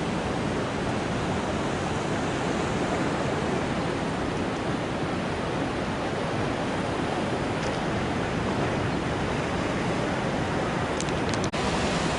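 Steady rushing noise, even and unbroken, with a brief dropout about eleven and a half seconds in.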